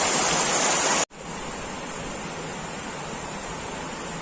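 Rushing floodwater, a steady loud rush that cuts off abruptly about a second in and then goes on as a quieter rush.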